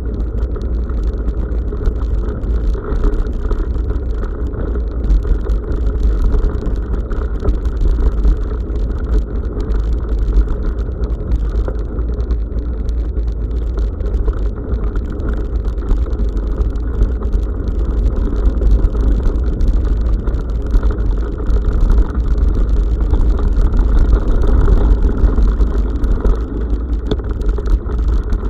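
Bicycle riding along a forest road, heard on an SJCAM SJ5000X action camera's microphone: a steady, muffled rumble of wind and tyre noise, with a thin scatter of small rattles and clicks.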